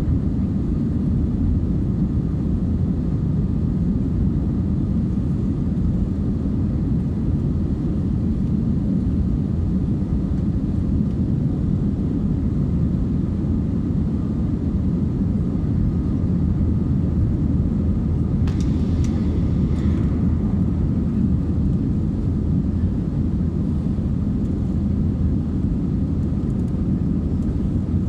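Airbus A320's IAE V2500 turbofan engines and airflow heard inside the cabin as a steady deep rumble during the climb. A brief faint higher sound comes about two-thirds of the way through.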